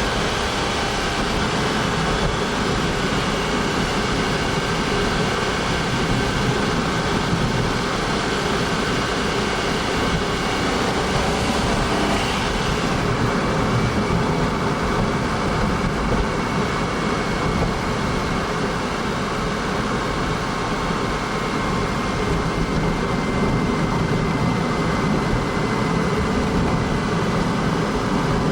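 Honda S660's turbocharged three-cylinder engine running steadily, a constant drone with a broad noisy hiss over faint engine tones.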